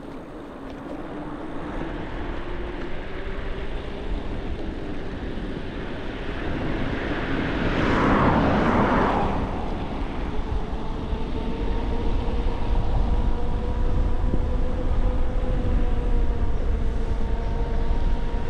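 Wind rumbling on the microphone during an e-bike ride, with a faint steady hum underneath. About eight seconds in, a passing vehicle's noise swells and fades.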